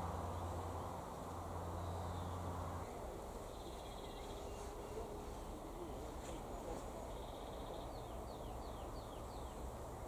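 Outdoor ambience with faint birdsong: a few short buzzy calls and, near the end, a quick run of falling notes. A low hum runs underneath for the first few seconds.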